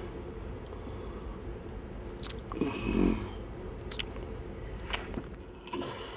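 A person biting into and chewing a chicken drumstick close to the microphone, with a handful of sharp bites spread through it, the loudest about three seconds in.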